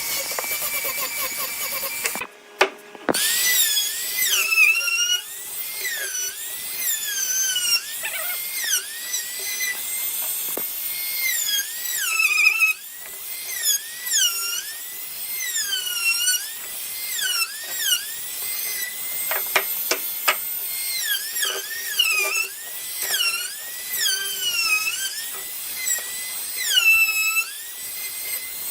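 Electric power tool motor whining at high speed, its pitch dipping and recovering over and over, about once a second, as it is loaded by the workpiece, with a short break a couple of seconds in.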